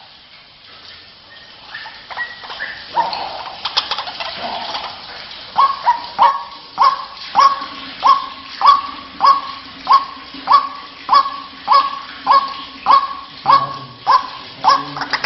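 White-breasted waterhen calling: a few soft, uneven calls, then a steady run of loud, evenly repeated calls, about one and a half a second, from about five seconds in.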